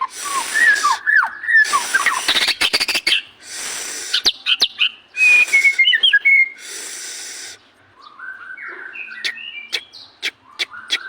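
White-rumped shama (murai batu) singing a busy, varied song: clear whistled notes that slide up and down, broken by several harsh raspy bursts and sharp clicking notes.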